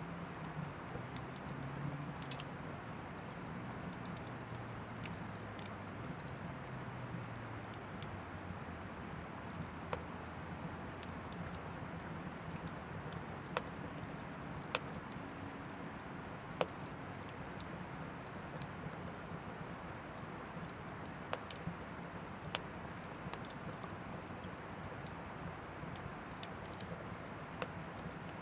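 Oak firewood burning in an Anevay Frontier Stove Plus wood stove: a steady soft hiss of flames with scattered sharp crackles and pops, a few of them louder.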